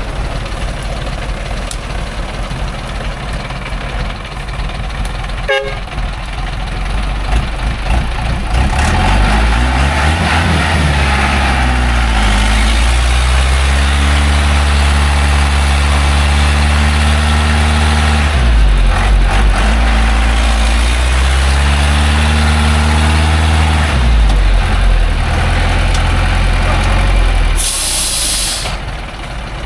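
Loaded logging truck's engine revving hard under load on a slippery muddy climb: the pitch rises about a third of the way in and is held high, drops briefly around the middle, then climbs and holds again. Near the end the revs fall away and a short, sharp hiss sounds.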